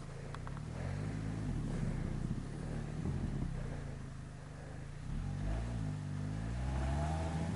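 Off-road vehicle's engine working hard through mud, its revs rising and falling, easing off about halfway and then climbing again.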